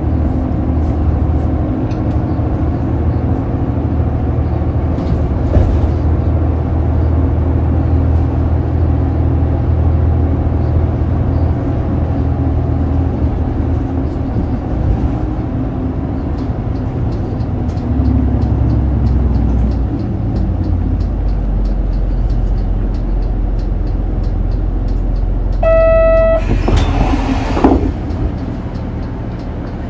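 Interior running sound of a Shin-Joban Kotsu route bus: a steady diesel engine drone with road noise, the engine note shifting as the bus changes speed. About 26 s in comes a short electronic chime, followed at once by a loud burst of hissing lasting about a second.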